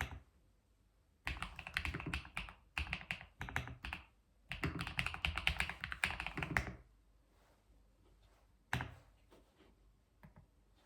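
Computer keyboard being typed on: two fast runs of key strokes lasting about two to three seconds each, then a single key press and a few scattered light taps near the end.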